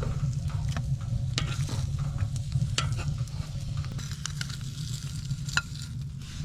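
Food sizzling in a hot pan, a steady hiss broken by scattered sharp pops, over a low steady rumble.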